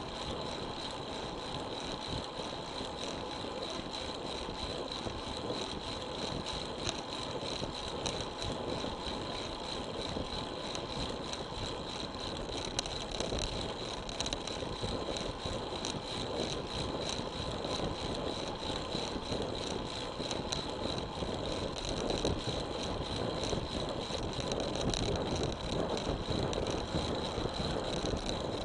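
Steady wind and rolling noise of a road bike being ridden, heard through an action camera's microphone, with a thin steady high whine running underneath.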